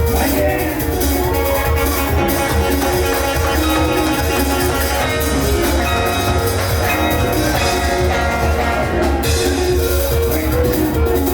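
Live band music with a steady drum beat and a heavy bass line under a repeating high melody.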